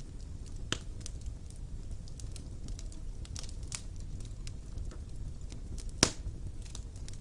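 Fire burning in a fireplace: a steady low rumble of flames with irregular crackles and snaps, and one loud pop about six seconds in.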